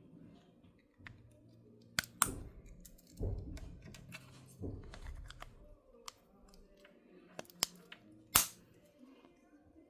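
Sharp plastic clicks and snaps from a car key fob's casing being handled and worked during a battery change, with soft handling rustle between them. The loudest snap comes near the end.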